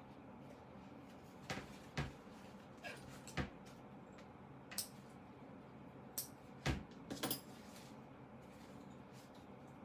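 Handling sounds from taking apart a synthetic-leather Bible cover: scattered short clicks and taps, about a dozen, irregularly spaced, a few coming in quick pairs a little past the middle.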